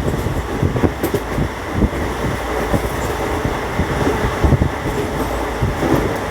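A moving vehicle's steady rumble with rapid, irregular rattling knocks throughout.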